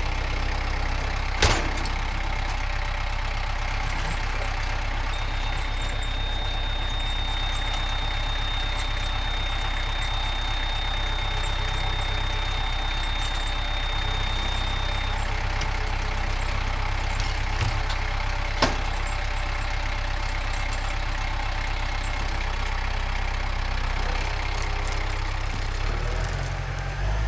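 A machine's engine running steadily at a low, even idle-like pace, the kind used to drag logs out, with two sharp knocks about a second and a half in and again near nineteen seconds. A thin, steady high tone holds for about ten seconds in the middle.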